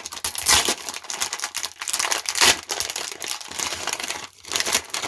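Plastic blind bag crinkling and tearing as it is pulled open by hand: a dense, continuous run of crackles.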